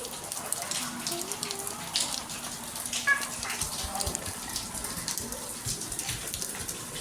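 Rain falling, with water splashing and running in many small splashes.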